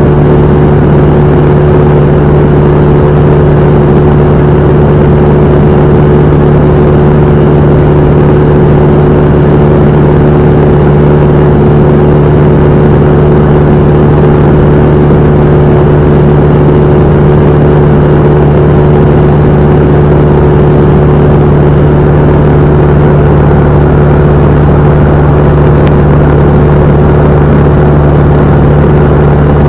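Cessna 172M's four-cylinder Lycoming O-320 engine and propeller running steadily, loud and unchanging in pitch throughout.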